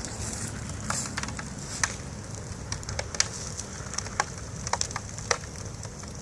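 A tube TV set burning in an open fire, crackling with irregular sharp pops over a steady low rumble.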